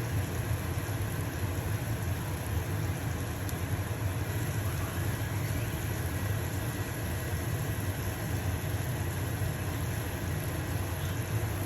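Stove-top range-hood fan running with a steady low hum, over the even hiss of a pancake sizzling in a frying pan.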